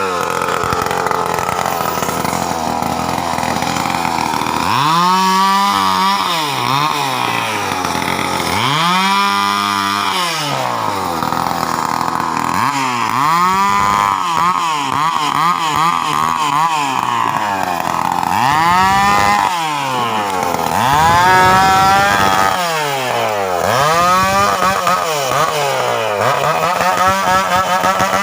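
Stihl chainsaw engine running at a steady high speed for the first few seconds, then revved again and again, its pitch rising and falling with each throttle blip.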